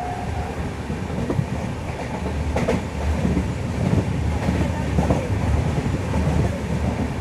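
Express passenger train running along the track: a steady low rumble with irregular knocks from the wheels and coaches, and one sharper clack about two and a half seconds in.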